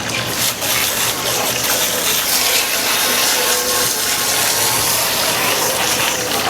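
Steady spray of rinse water hissing and splashing onto a boat's gel-coat hull, washing off black streak remover.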